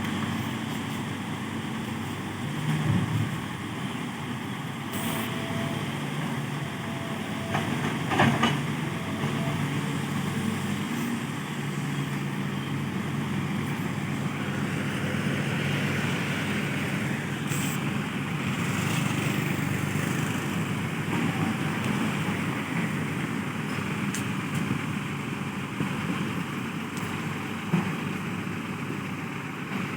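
Heavy diesel engine running steadily, with a few short clicks and knocks over it.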